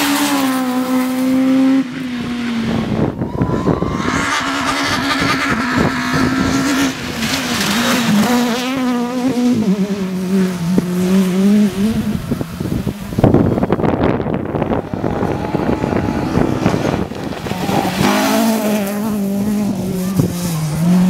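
Race car engines held at high revs, with tyre squeal, in several short shots cut together; the sound changes abruptly a few times.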